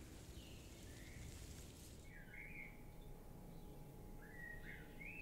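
Faint outdoor ambience with a few short bird chirps, several of them about two seconds in and again near the end, over low background noise.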